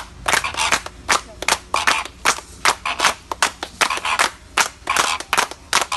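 Hand clapping in a steady rhythm, about four sharp claps a second.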